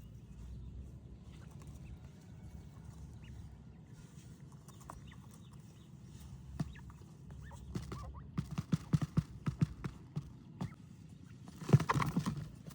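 A low steady rumble, then from about eight seconds in a fast, irregular run of sharp taps and knocks, loudest about a second before the end.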